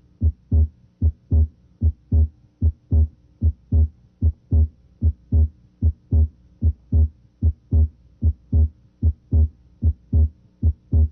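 Heart sounds heard through a stethoscope at the left third intercostal space. Paired S1 and S2 beats repeat steadily, a little faster than once a second, during deep breathing. Both components of the second sound, A2 and P2, may be heard, and S2 splits late in inspiration.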